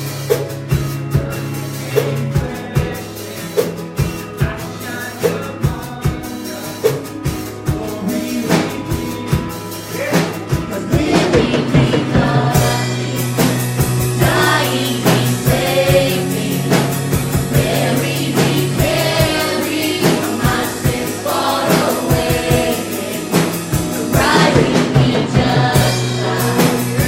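Gospel praise music from a church band: a drum kit keeps a steady beat under sustained low notes, and voices join in singing strongly about eleven seconds in.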